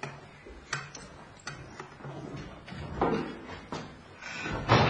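Several light knocks and clunks, spaced irregularly, with a louder rustling clatter near the end.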